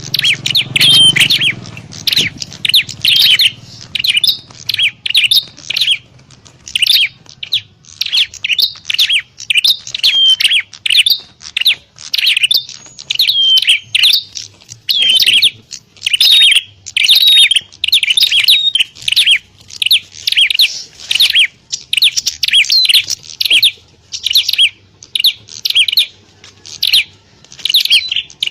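Prinias (prenjak) calling in a rapid, unbroken run of sharp chirps, as in a noisy 'fighting' exchange between birds, used as a lure call to draw in wild prinias.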